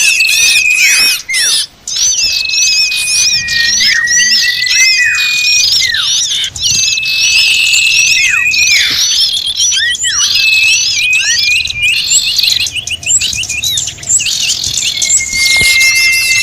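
Bird-lure recording of many small birds chattering and calling at once, an agitated chorus meant to draw small birds in. A long, thin whistle that drops sharply at its end recurs every few seconds over the dense chirping.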